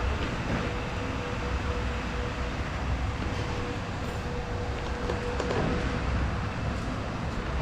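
Steady street noise with a low rumble of traffic and a steady hum that fades out about six seconds in.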